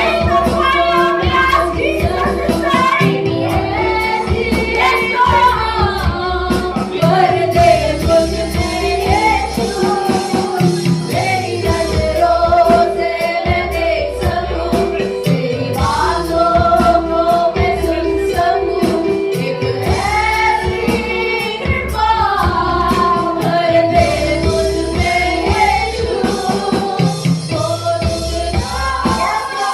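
Congregational worship singing of a Hindi Christian worship song, led by a female voice, with band accompaniment and a tambourine keeping a steady beat.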